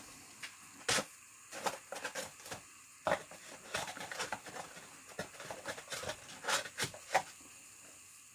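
Trading cards and pack wrappers being handled: scattered light clicks and rustles at irregular intervals, with sharper clicks about a second in and again near the end.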